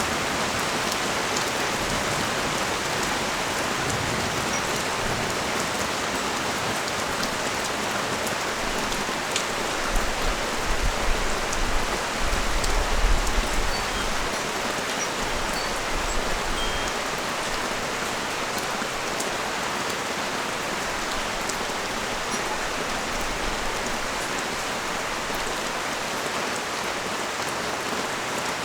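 Rain falling steadily on a street, an even hiss of drops. A low rumble swells for a few seconds about a third of the way in.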